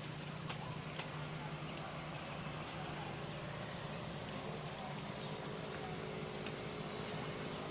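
A steady low engine drone under a constant wash of noise, with a few faint clicks and a short falling high chirp about five seconds in.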